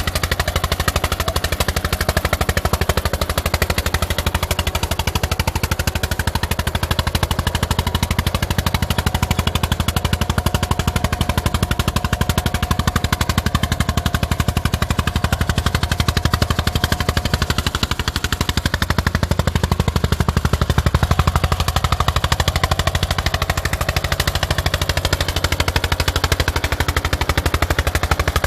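1981 Eicher tractor's diesel engine running steadily under load, pulling an eight-tine cultivator, with a fast, even exhaust knock.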